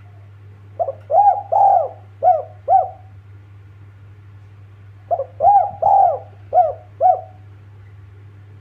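Spotted dove (tekukur) cooing: two phrases of about five arched coos each, about four seconds apart, over a steady low hum.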